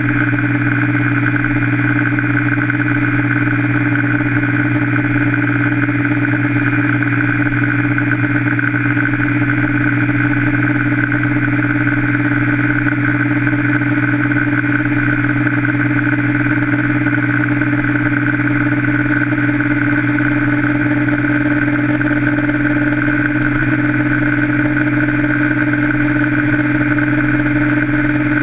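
Yamaha Factor 125 single-cylinder motorcycle engine running steadily at one unchanging speed, held flat out in a top-speed run.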